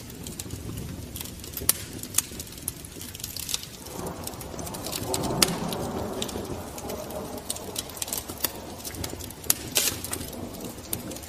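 Pigeons cooing, the cooing strongest in the middle, with scattered sharp clicks throughout.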